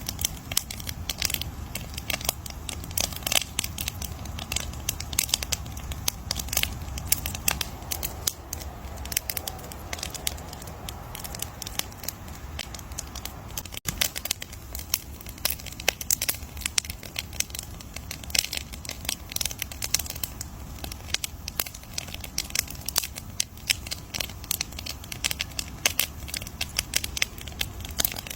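Wood bonfire crackling: dense, irregular pops and snaps over a low steady rumble of the flames.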